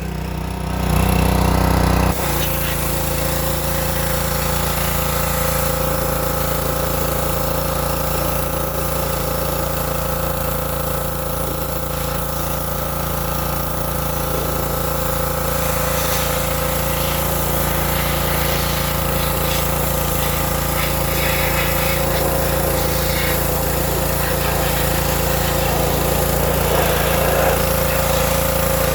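Pressure washer running steadily while spraying, its small engine and pump holding a constant note, with a brief louder surge a second or two in.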